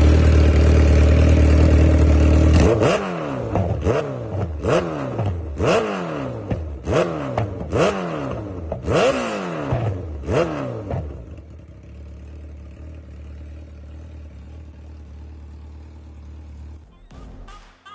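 Kawasaki Ninja H2's supercharged inline-four through a Vandemon aftermarket exhaust: idling, then blipped hard about a dozen times in quick succession, each rev snapping up and falling straight back, before settling into a quieter steady idle for the last several seconds.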